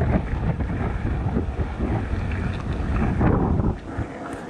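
Wind buffeting the microphone, a loud gusty rumble that drops off shortly before the end.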